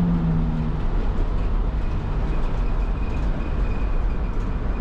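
Steady low road and engine rumble inside the cab of a 2006 Sprinter van driving at road speed.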